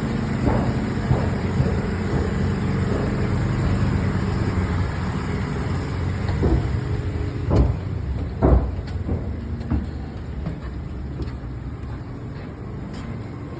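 An engine running steadily, with scattered sharp knocks of framing work over it; the two loudest knocks fall about halfway through, and the engine quietens somewhat near the end.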